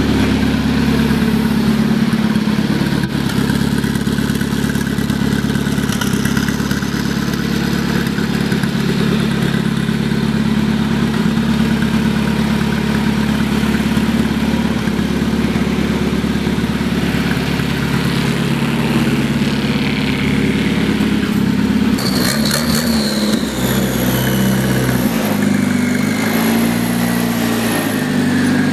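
Tractor's Volvo turbocharged engine running at a steady speed. About two-thirds of the way in, the engine speed starts changing up and down in steps, and a high whine falls slowly in pitch.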